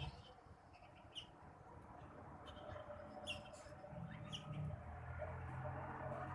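A songbird, the rengganis or cucak wilis, giving short sharp chirps, about six of them with irregular gaps. A low steady hum comes in from about four seconds in.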